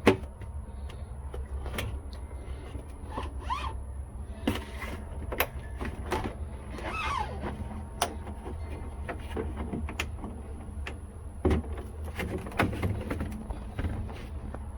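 Hands handling refrigerator parts: scattered clicks and knocks, with two short squeaks of plastic rubbing, over a steady low hum.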